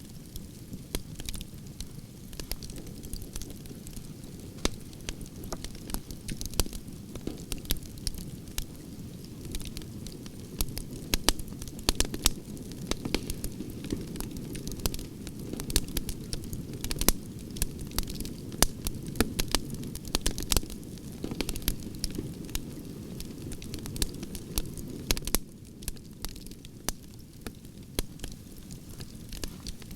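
Firewood burning: an irregular stream of sharp crackles and pops over a low steady rumble of the flames, the rumble easing slightly near the end.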